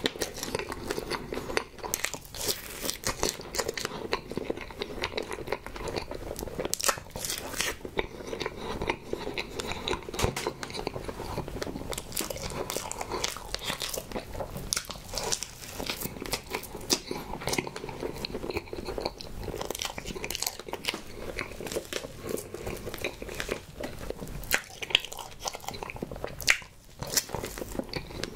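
Close-miked chewing and biting of a slice of soft strawberry crepe cake with cream: wet mouth sounds and many small irregular clicks, with a brief pause near the end.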